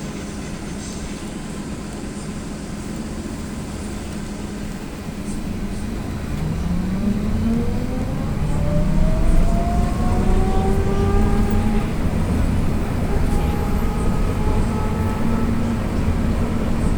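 AKSM-321 trolleybus pulling away, heard from inside the passenger cabin. Over the low hum and cabin rumble, the electric traction drive's whine rises in pitch about five seconds in, and the running noise grows louder as the trolleybus gathers speed, then settles into a steady whine.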